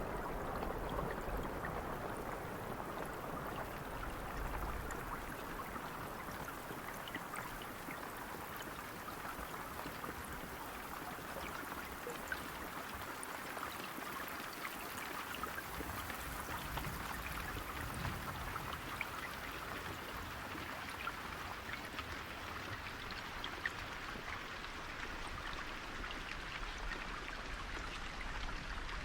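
Steady rainfall, a continuous hiss of falling rain with scattered individual drops ticking on nearby surfaces.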